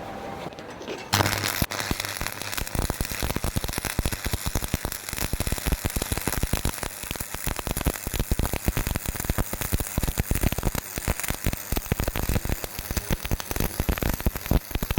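Stick welding arc on thin square box pipe: it strikes about a second in, then crackles and sputters steadily.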